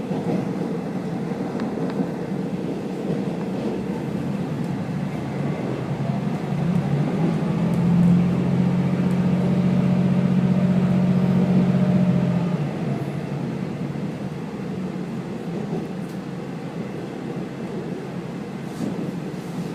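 Diesel railcar running along the line, heard from inside the car as a steady rumble of wheels and engine. About six seconds in, a low engine drone swells louder for some six seconds, then eases back.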